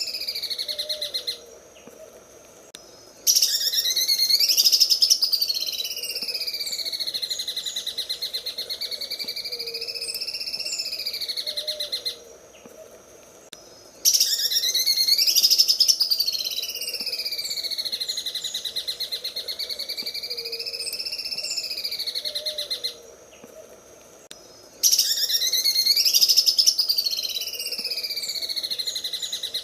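Cucak ijo (green leafbird) singing its 'sewing machine' song: a fast, rattling trill that swoops up and down in pitch. The same phrase repeats three times, each broken by a short pause, at about 1.5, 12 and 23 seconds in, and each restart is the loudest part.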